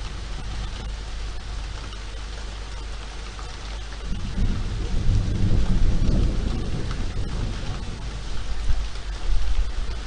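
Steady rain falling on a city street, with a low rumble of thunder that swells about four seconds in and fades, then returns briefly near the end.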